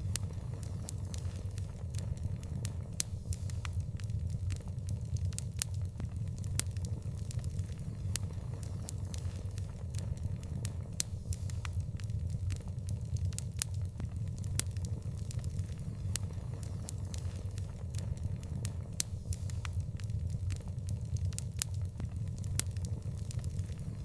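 Wood fire burning with irregular sharp crackles and pops over a steady low rumble of flames.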